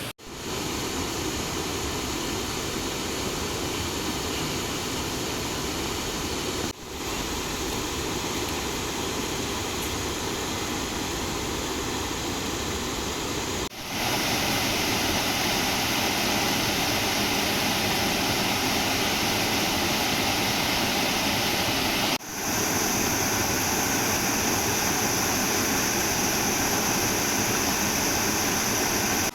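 Steady rush of falling water from a tiered waterfall, cutting off briefly three times and coming back a little louder after the second break.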